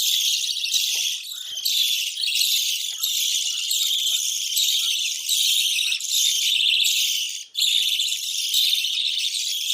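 A flock of budgerigars chattering and warbling nonstop in dense, high-pitched chirps, breaking off for a moment near the end.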